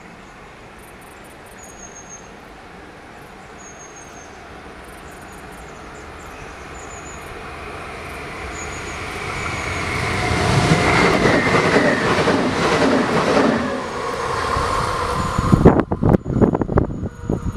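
A train on an electrified line approaching and running past. Rail and wheel noise builds for about ten seconds and a falling whine comes as it passes. A burst of sharp, irregular clattering follows near the end.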